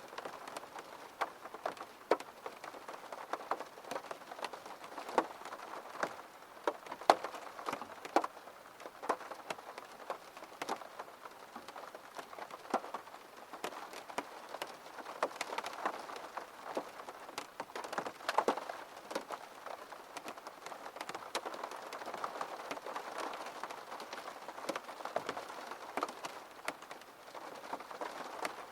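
Steady rain, with many sharp, irregular taps of drops landing close by.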